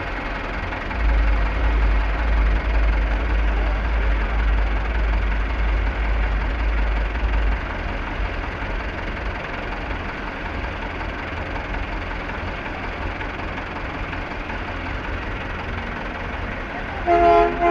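A heavy truck engine idling with a deep low rumble for several seconds, among background crowd chatter. A brief loud pitched tone with several overtones sounds near the end.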